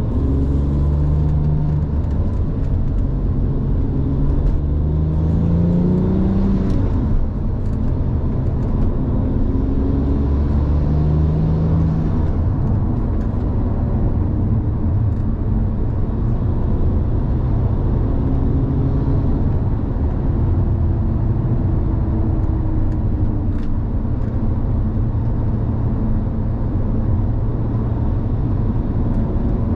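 2007 Porsche 911 Turbo's twin-turbocharged flat-six engine on the road. It pulls up through the gears with its note rising, drops at gear changes about seven and twelve seconds in, then holds a steady cruise under road noise.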